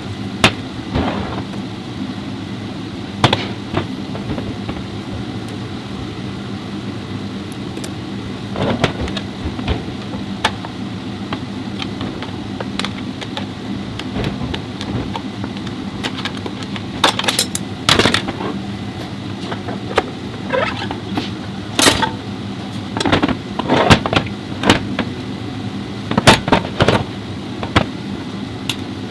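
Metal tools and transmission parts knocking and clinking at irregular intervals over a steady low hum, with clusters of sharp knocks in the second half.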